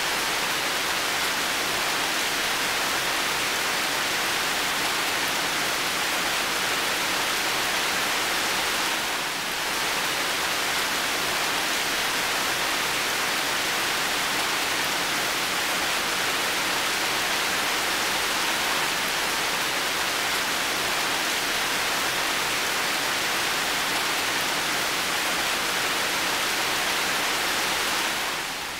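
Heavy rain falling in a steady, dense hiss, splashing on a sheet-metal roof, with a brief slight lull about nine seconds in.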